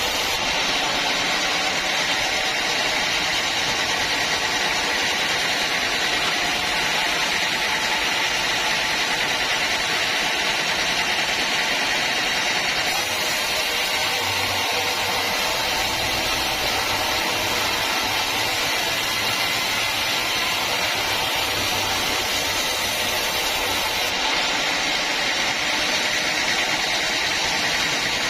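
Sawmill machinery running steadily: a constant, even, high-pitched noise with no break, and a faint low hum under it through the middle.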